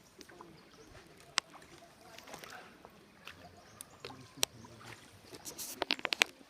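Canoe paddling: paddle strokes in the water with a few sharp knocks of paddle against the canoe's hull, and a quick run of knocks near the end.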